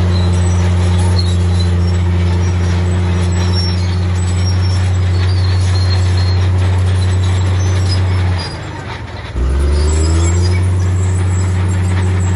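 Heavy diesel engine of earthmoving machinery running steadily at high revs. About eight and a half seconds in, the revs drop briefly and then climb back up to a steady pitch.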